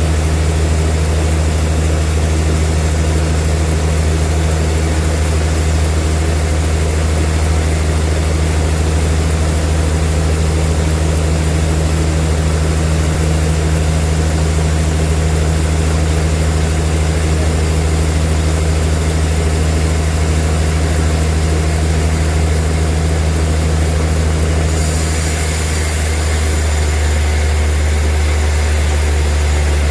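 Sawmill bandsaw machinery running steadily with a deep, even hum and a broad noisy rush. About 25 seconds in, a higher hiss comes in and the hum shifts slightly.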